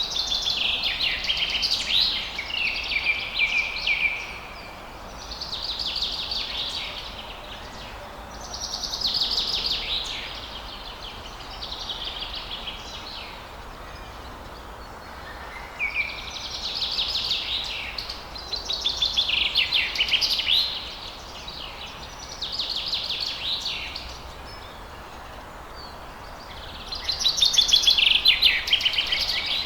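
Songbird song in repeated high, trilling phrases of two to four seconds each, with short pauses between them, over a steady background hiss. The loudest phrase comes near the end.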